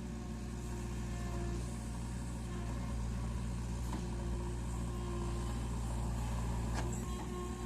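HMT tractor's diesel engine running at a steady speed, with a couple of faint clicks.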